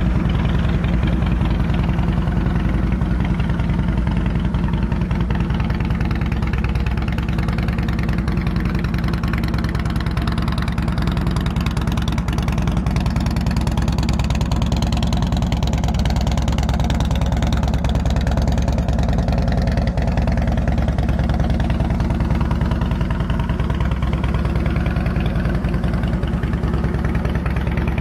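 2005 Harley-Davidson Softail Deluxe's fuel-injected, balanced Twin Cam 88B V-twin idling steadily through Vance & Hines Long Shots exhaust pipes.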